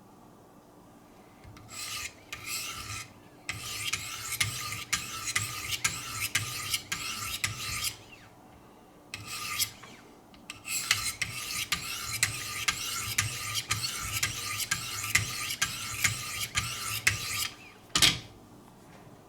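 400-grit diamond stones of a Wicked Edge guided sharpening system stroked quickly along a knife's edge, giving a scraping rasp in rapid repeated strokes. The strokes come in two long runs, and a single sharp knock follows near the end.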